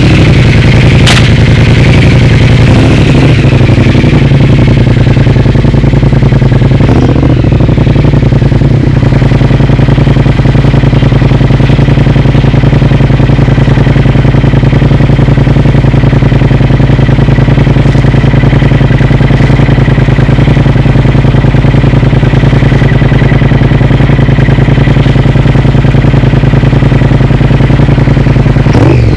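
Triumph Speed Twin's parallel-twin engine running loud and steady through an aftermarket Vance & Hines exhaust, with a sharp crack about a second in and a few brief rises and falls in pitch.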